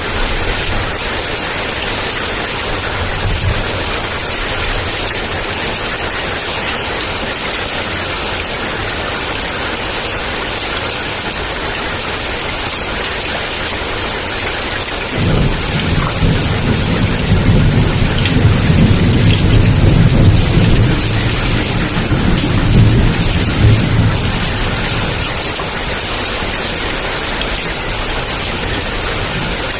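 Heavy downpour falling steadily with a dense hiss. About halfway through, a thunder rumble comes in suddenly, rolls for about nine seconds and dies away.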